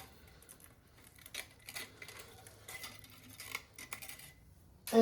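Scattered light clicks and clinks of metal hand tools and small engine parts being handled.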